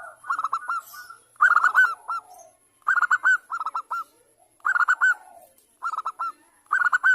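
Zebra dove (perkutut) calling in about seven short phrases of quick, staccato cooing notes, spaced roughly a second apart; the call is presented as a female calling to a male.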